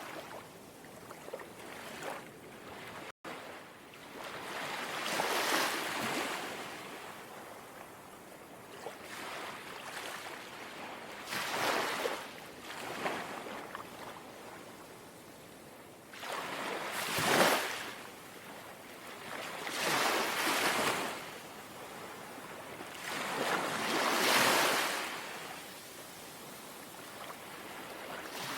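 Gentle sea waves lapping and washing ashore, about five swells rising and falling a few seconds apart over a steady hiss of surf. The sound cuts out for an instant about three seconds in.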